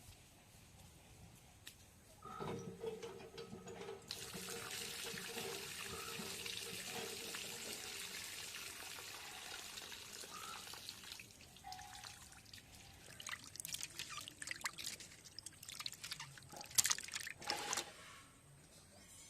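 Water poured in a steady stream for several seconds, then splashing and knocking as fish pieces are rinsed by hand in a bowl, with one louder knock near the end.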